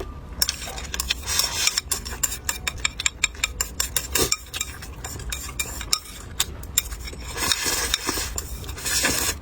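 Eating utensils clicking and scraping against bowls and plates in quick, irregular strokes, over a steady low hum.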